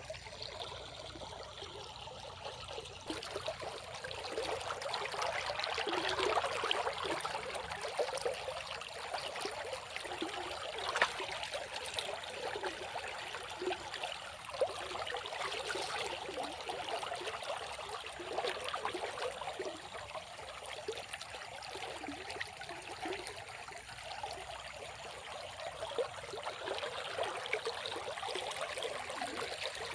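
Waterfall: water running and splashing steadily, the rush swelling and easing at times.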